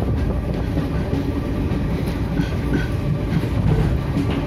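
Passenger train running along the track, a steady rumble of its wheels on the rails heard from an open coach doorway.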